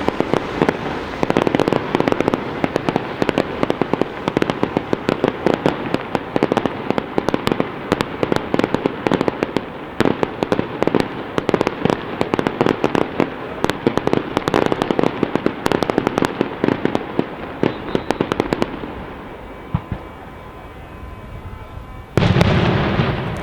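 Fireworks display: a dense, continuous run of cracks and pops from many bursting shells, easing off about 19 seconds in. A loud new burst comes near the end.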